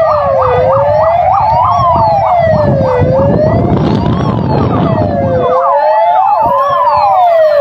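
Several fire engine sirens sounding together, overlapping: slow rising-and-falling wails mixed with faster yelping sweeps, over a steady low rumble.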